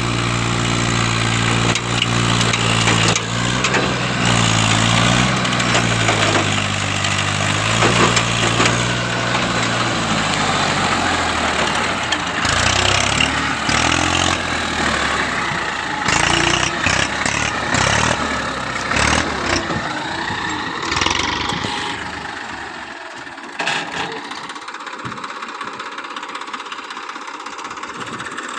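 TAFE 241 DI tractor's diesel engine running. For about ten seconds it gives a steady, pitched hum that sags and recovers a little. It then turns rougher and noisier with scattered knocks, and grows somewhat quieter near the end.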